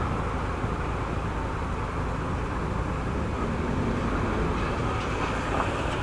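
Motorcycle running at a steady pace on the road, engine and road noise holding an even level.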